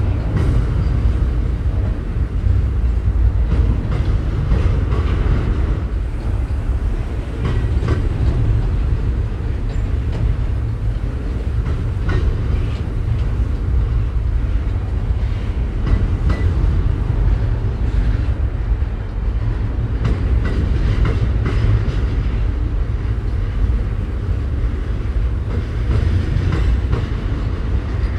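Freight train cars rolling past, a steady heavy rumble with scattered wheel clicks over the rails.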